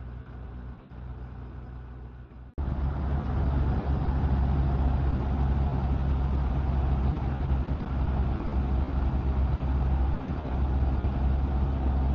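Motorcycle on the move: a steady low engine hum under wind and road noise, jumping abruptly louder about two and a half seconds in.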